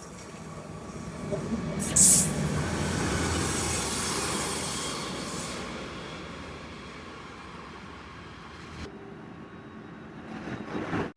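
Train running on rails: the rumble builds, peaks with a sharp hiss about two seconds in, then fades away.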